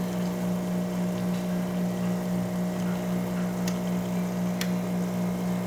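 Rancilio Silvia espresso machine's vibratory pump running with a steady buzzing hum, drawing water from the freshly filled tank, with a couple of faint ticks partway through.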